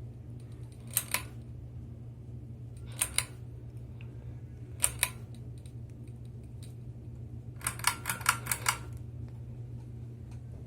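Harbor Breeze Ocracoke ceiling fan running with a steady low hum, broken by sharp clicks: a pair about a second in, another pair about three seconds in, one about five seconds in, and a quick run of about six near eight seconds.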